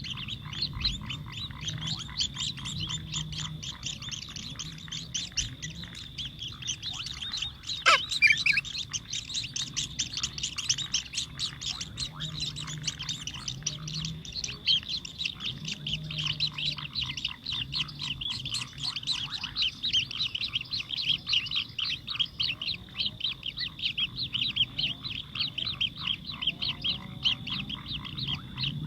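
House sparrows chirping in fast, unbroken runs of many short chirps a second, the begging and calling that goes with an adult feeding its chick. About 8 s in, one loud call sweeps downward. A low hum comes and goes underneath.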